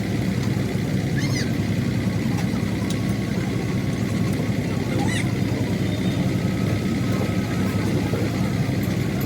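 An engine idling steadily with a low, even rumble. Two brief high chirps sound over it, about a second in and about five seconds in.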